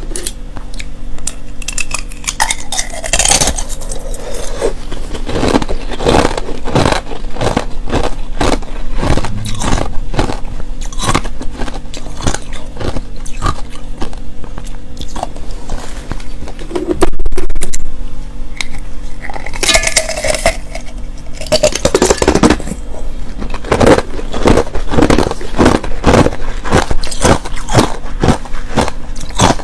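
Close-miked crunching and chewing of clear ice and powdery crushed ice, a dense run of irregular crunches and scrapes, with one short, loud distorted burst a little past halfway.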